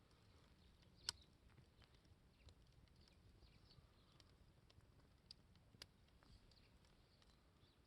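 Wood campfire crackling faintly, with a few sharp pops, the loudest about a second in and two more near the end.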